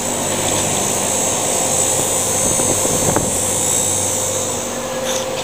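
A steady mechanical drone, a whooshing hiss over a low hum, holding even throughout.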